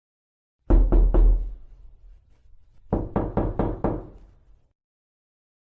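Knuckles knocking on a wooden door: three quick knocks, a short pause, then five more quick knocks in an even rhythm.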